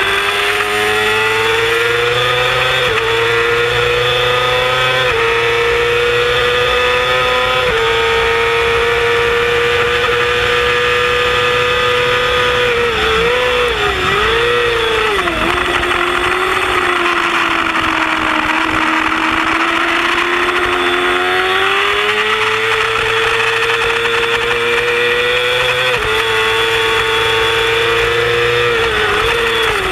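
Yamaha R6 inline-four sport-bike engine at high revs on track, pulling hard through the gears with several quick upshifts in the first eight seconds. About halfway the revs dip and blip while it shifts down for a corner, then it accelerates hard again with another upshift near the end.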